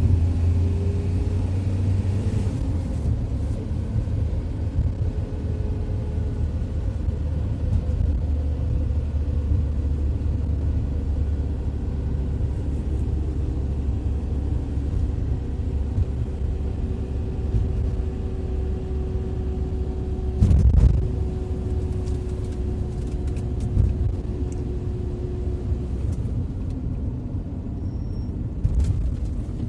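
2006 Ford Transit 2.4-litre turbodiesel van driving at a steady pace: low engine and road rumble with a faint steady drone, and one brief thump about two-thirds of the way through.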